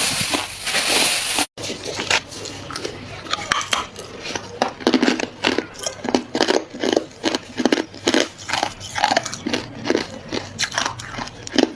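Hard ice being bitten and chewed: a loud grinding crunch, a brief break, then a quick run of sharp crunches, several a second.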